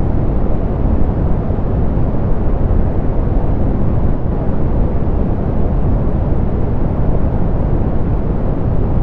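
Steady soft pink noise: an even, unchanging hiss weighted toward the low end, with the highs rolled off.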